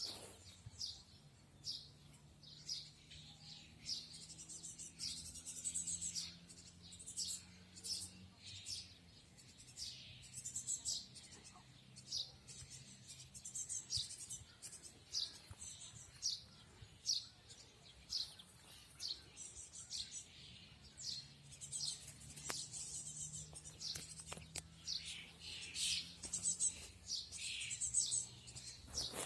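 Several small songbirds chirping and singing, with many short, high calls overlapping one another. A faint low hum runs underneath for the first several seconds and again in the second half.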